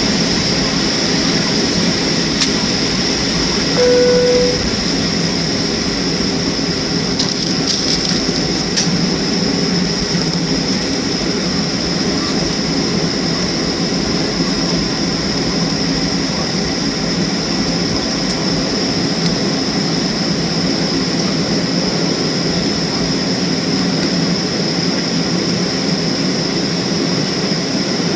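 Steady cabin noise of a Boeing 737-300 on the ground after landing: the jet engines' hum under a constant high whine. A brief single tone sounds about four seconds in.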